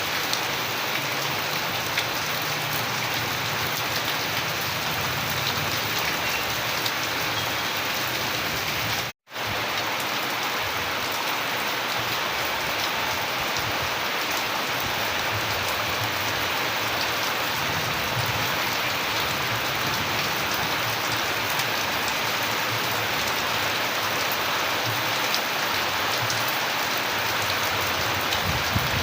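Steady rainfall, an even hiss of many raindrops landing. It cuts out for a split second about nine seconds in, then carries on unchanged.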